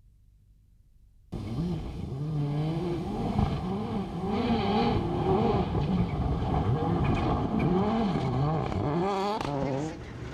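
After a brief near silence, a World Rally Car's turbocharged four-cylinder engine is driven hard, its pitch rising and falling quickly through throttle lifts and gear changes. The level dips briefly near the end.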